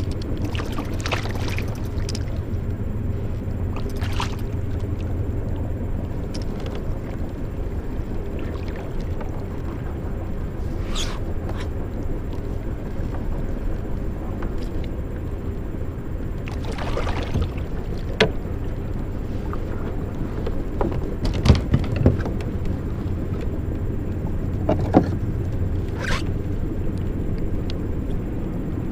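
Steady low rumble of wind on the microphone, with scattered knocks and scrapes of fishing gear being handled in a kayak, the loudest a few sharp knocks around the middle.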